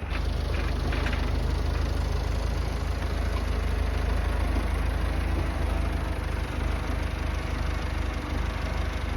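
Massey Ferguson tractor engine running steadily with a low, even pulsing.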